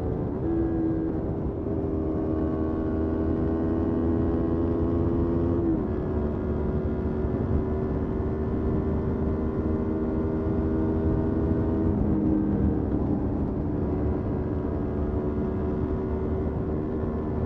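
Motorcycle engine running steadily under way, its pitch stepping down sharply about 6 seconds in and again about 12 seconds in, over a constant low rushing noise.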